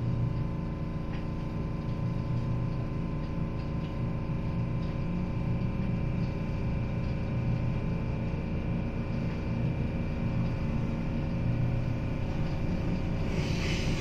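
Inside the cabin of a JR West 221 series electric train pulling out of a station and running on: a steady rumble and hum of the moving train.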